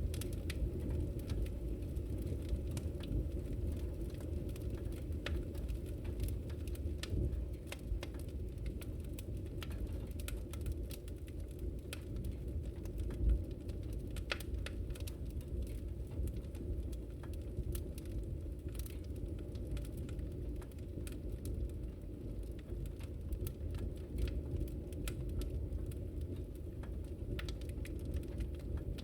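Wood fire crackling in a fireplace: a steady low rumble of flames with scattered small pops, one louder pop about halfway through.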